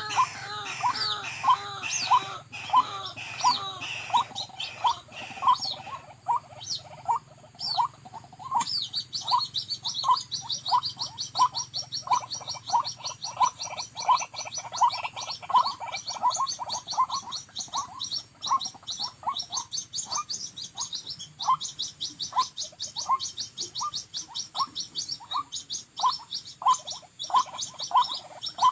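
White-breasted waterhen calling: a repeated note about twice a second. A faster series of higher notes joins about a third of the way in, and a faint steady high insect-like whine runs beneath.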